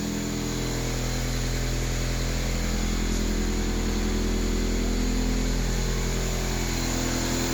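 Toyota 7A 1.8-litre four-cylinder petrol engine idling steadily and evenly, the smooth, clean running of a healthy engine.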